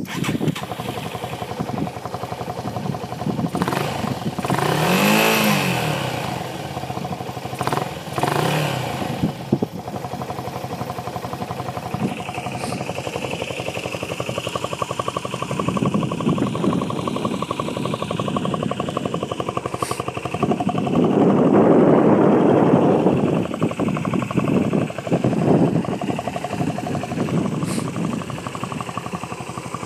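Yamaha SRX250's single-cylinder four-stroke engine running at idle and revved up and back down several times: about five seconds in, again near eight seconds, and a longer, louder rev around twenty-two seconds. The engine, a replacement with about 7000 km on it, runs readily.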